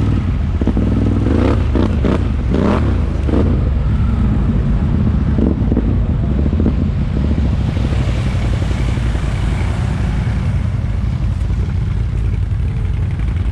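ATV engine running steadily while riding, a continuous low drone.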